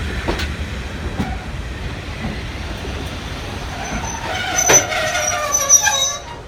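Heritage railway train running on jointed track: wheels clicking over the rail joints over a steady rumble. From about four seconds in, high-pitched wheel squealing comes in with a sharp clank, then the sound cuts off just before the end.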